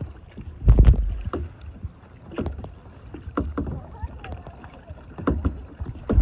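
Kayak paddle strokes splashing in the water at an uneven pace, the loudest about a second in and again near the end.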